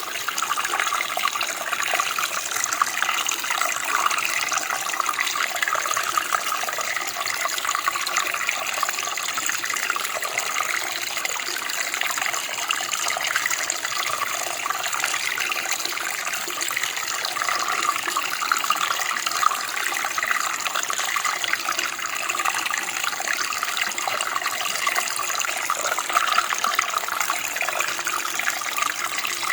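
Running water of a small stream or creek, a steady light splashing and babbling over stones.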